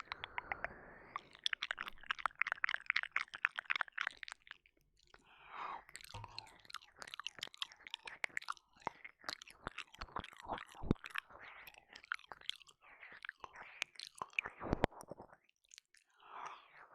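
Close-up wet mouth sounds into a binaural ear microphone: licking, smacking and rapid tongue clicks, with short breathy exhalations between.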